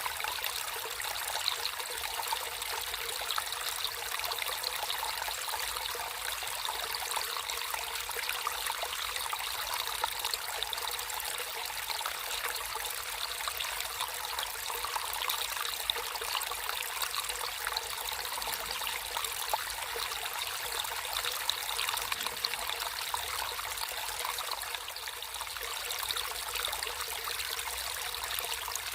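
Water running and trickling in a small natural stream, a steady bright splashing without pause.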